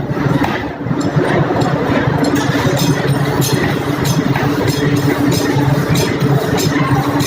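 Forging-shop machinery running with a steady hum, with sharp metallic clinks repeating about twice a second.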